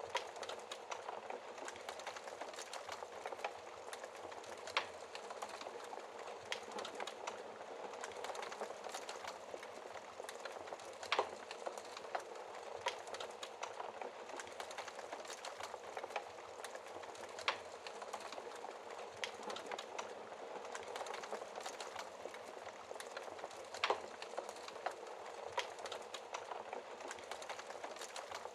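Burning logs crackling, with small irregular snaps and a few louder pops, over a steady hiss of rain.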